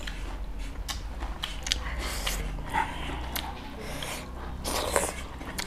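Close-miked eating sounds: chewing, with a run of short wet mouth clicks and lip smacks.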